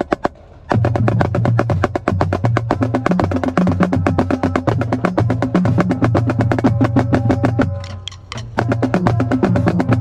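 Marching drumline playing a street beat cadence: a marching snare fires rapid, even strokes over low drum notes that step up and down in pitch. The playing starts about a second in and breaks off briefly near the eight-second mark before picking up again.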